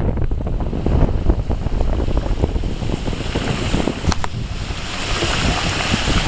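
Wind buffeting the microphone: a steady rushing rumble with irregular gusts and knocks.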